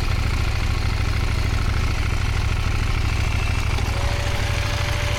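Motorcycle engine running steadily with a fast low pulsing, a faint steady whine joining about four seconds in.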